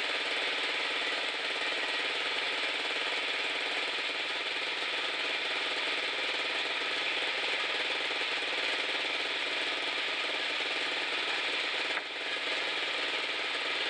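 Sawmill running steadily, its engine under load while the blade cuts through a log, with a brief dip about twelve seconds in.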